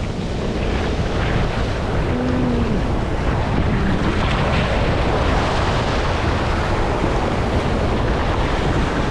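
Wind buffeting the microphone over breaking surf: a loud, steady rush.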